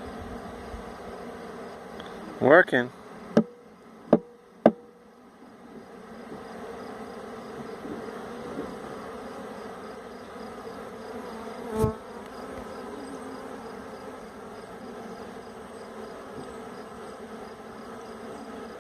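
Honey bee swarm buzzing in a steady, dense hum as the bees settle onto the hive frames. A few sharp taps come around three to five seconds in, and a brief thump near the middle.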